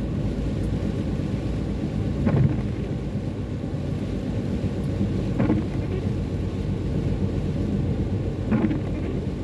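Car cabin noise while driving on a wet road: a steady low rumble of engine and tyres, with a short swish about every three seconds that fits the windscreen wipers sweeping.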